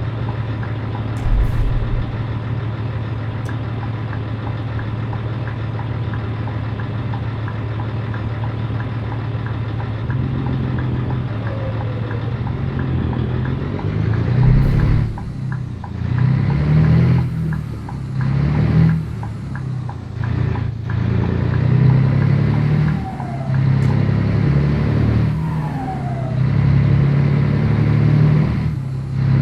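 Scania 113 truck's diesel engine running steadily, then pulling harder from about ten seconds in, with the engine note dropping briefly several times as it goes up through the gears.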